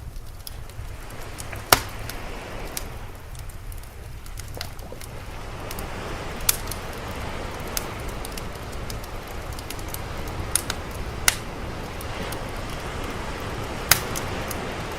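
Wood fire crackling, with sharp pops every second or two, over a continuous wash of sea waves that swells about a third of the way in.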